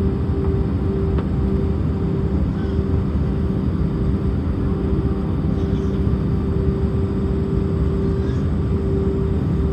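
Steady jet engine and airflow rumble inside the cabin of an Airbus A319 airliner, with a steady droning tone above it.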